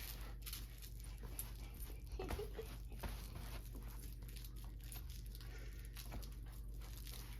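A dog chewing and tearing at a crinkly toy or wrapping, with irregular crinkling, scratching and small clicks, and a brief pitched squeak about two seconds in.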